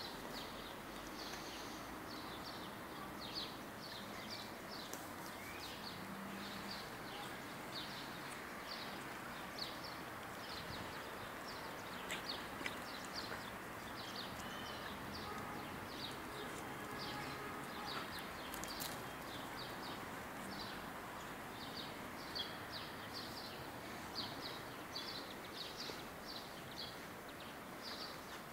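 Small birds chirping continually, short high chirps in quick succession over a steady outdoor background hiss.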